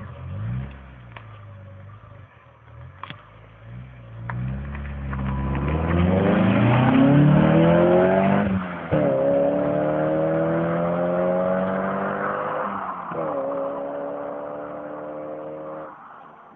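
Proton Satria GTi hatchback with a 1.8-litre four-cylinder engine accelerating hard past, its engine note climbing, dropping sharply at two quick upshifts about 9 and 13 seconds in and climbing again, loudest as it goes by and fading as it pulls away.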